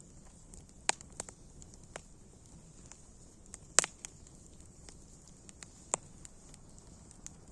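Wood fire crackling: irregular sharp pops and snaps over a soft steady hiss, the loudest pop about halfway through.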